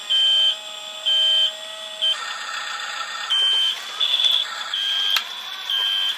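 Double E toy RC bulldozer's electronic beeping, a high beep about once a second, with a small electric motor and gears whirring under it from about two seconds in.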